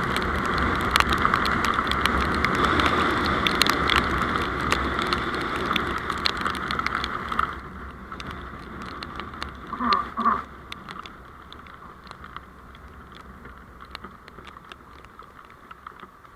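Road vehicle noise from a dashcam recording: a loud hiss with many small ticks that drops sharply about seven and a half seconds in. About ten seconds in there are two short tones close together, then a quieter hiss with scattered ticks.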